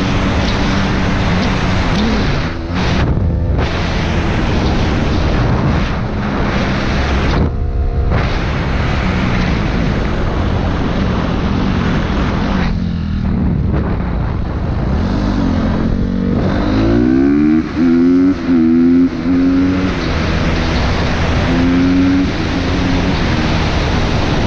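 Dirt bike engines revving hard at speed, the pitch climbing and falling with throttle and gear changes, under heavy wind rush. The sound breaks off briefly several times where the footage cuts.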